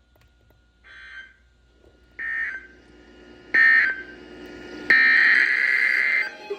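Emergency Alert System electronic tones: three short buzzy data bursts about a second and a half apart, then a longer steady tone about five seconds in.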